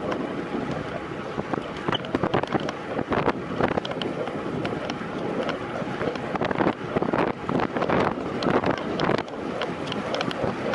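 Wind rushing over the microphone of a time-trial bicycle at racing speed: a steady rush broken by frequent short gusts.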